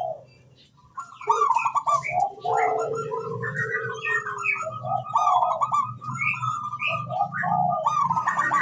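Zebra doves (perkutut) cooing: after a brief pause, a dense run of overlapping cooing calls starts about a second in and carries on.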